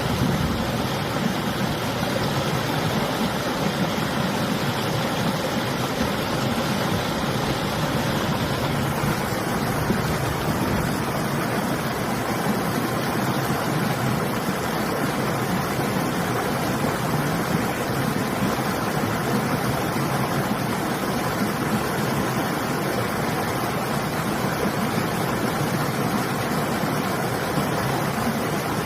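Steady rush of river water flowing, mixed with winter wind. The higher hiss eases slightly about nine seconds in.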